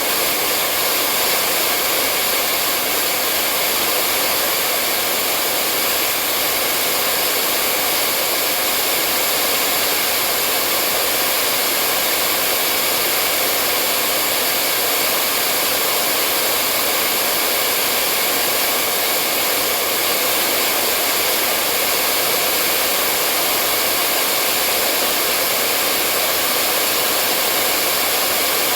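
Hair dryer running continuously on a steady setting: an even, unbroken blowing hiss with a faint motor hum, used as white noise to lull a baby to sleep.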